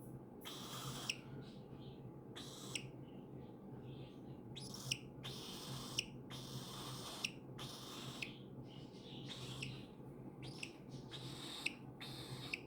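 Baby cockatiel giving about ten raspy, hissing calls, each ending in a short sharp chirp, over a steady low hum.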